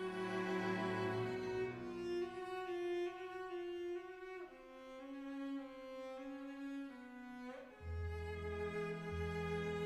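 Slow, sustained string music: violin and cello notes held for a second or two each, with a deeper bass line coming in about eight seconds in.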